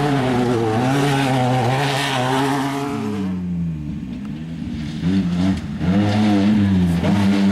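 Off-road race vehicle engine running hard as it passes, its note steady at first. About three seconds in it falls in pitch and grows quieter, then it comes back loud about five seconds in with several rises and drops in pitch.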